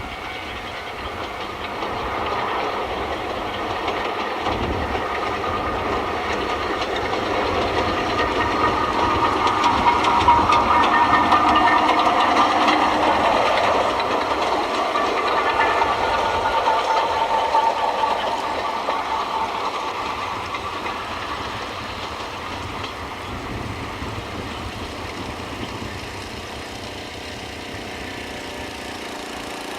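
Kashima Railway diesel train passing, its engine and wheels on the track growing louder to a peak about ten seconds in, then fading away.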